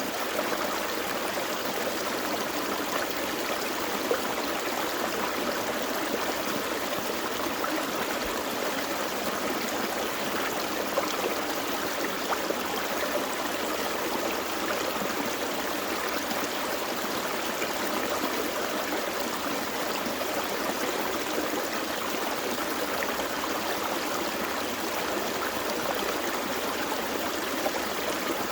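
Gentle forest creek flowing over rocks: a steady babbling rush with small splashes and trickles.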